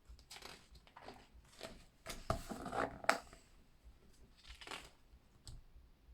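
Pages of a book being turned by hand: a few papery swishes and rustles, loudest about two to three seconds in.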